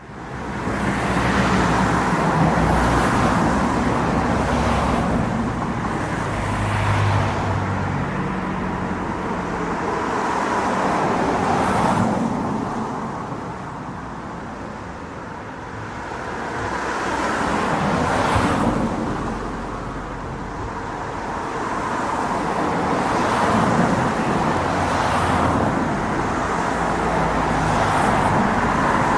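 City road traffic: a steady wash of tyre and engine noise, with vehicles passing one after another so that the sound swells and fades every few seconds.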